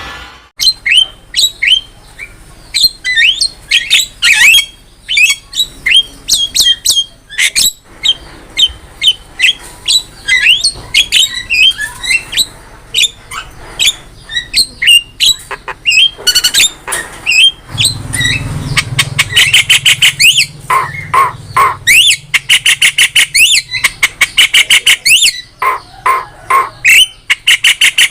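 Javan myna (jalak kebo) calling in a fast string of harsh squawks, sharp chirps and quick rising whistles. About two-thirds of the way in, the calls turn into rapid rattling runs of clicks mixed with squawks.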